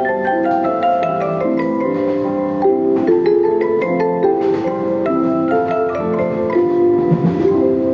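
A melody of short, bell-like mallet notes, one after another.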